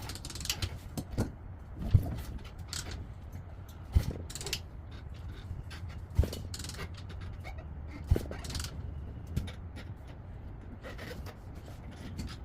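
Hand tools working on a pit bike engine: sharp metallic knocks about every two seconds, with clicking and scraping in between.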